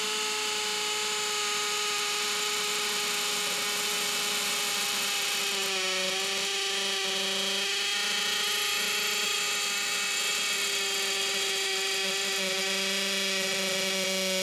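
Ryobi One+ 18V HP brushless hammer drill running steadily in hammer mode, boring a 5/32-inch masonry bit into a concrete floor. Its motor pitch dips slightly about six seconds in.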